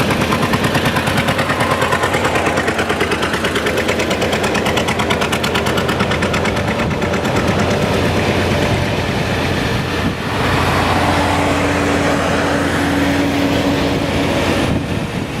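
Farm tractor engine running close by, its exhaust firing in a rapid, even beat. About ten seconds in the sound changes to a smoother run with a steady hum.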